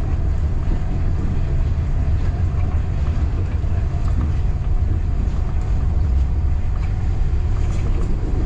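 Local passenger train running along the track, heard from on board: a steady, heavy low rumble with scattered faint clicks.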